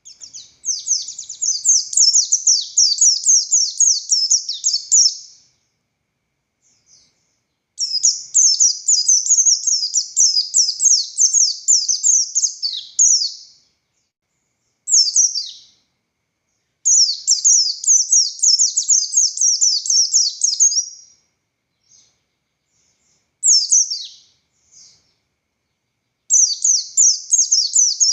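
White-eye (pleci buxtoni) singing a rapid, high-pitched chattering song in long runs of fast down-slurred notes, each run lasting several seconds. The longer runs are broken by short gaps, and a couple of short single phrases fall between them.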